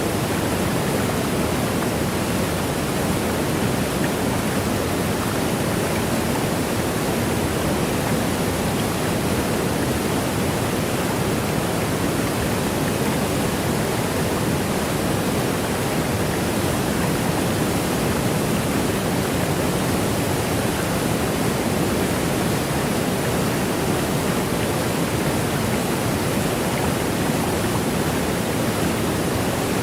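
Waterfall rushing: a steady, even roar of falling water, unchanging throughout.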